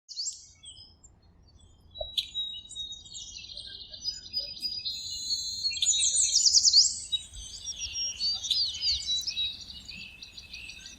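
Several songbirds singing and chirping together: overlapping high trills, quick sweeping whistles and chirps, growing busier from about three seconds in.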